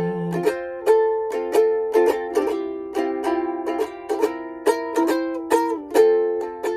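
Kit-built soprano ukulele strumming a steady pattern of chords, the instrumental close of the song after the last sung line.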